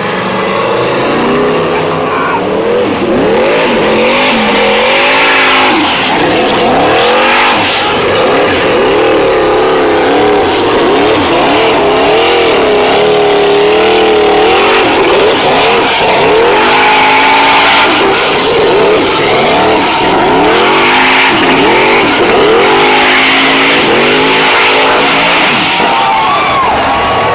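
Off-road race car engine revving hard, its pitch rising and falling over and over as the throttle is worked on the climb, over a constant rush of tyre and loose-ground noise.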